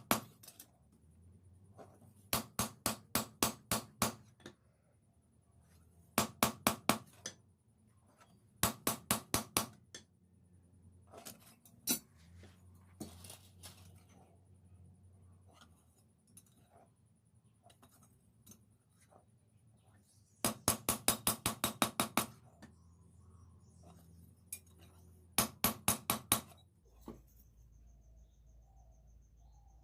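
Hand hammer striking steel on an anvil, forging a knife blade. The blows come in bursts of about five to ten quick strikes, roughly four to six a second, with pauses of a few seconds between bursts and a few lighter taps in between.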